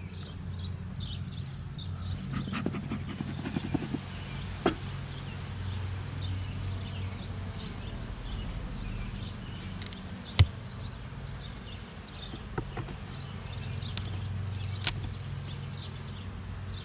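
Honeybee colony buzzing steadily in an opened, crowded hive, with a few sharp clicks and knocks, the loudest about ten seconds in.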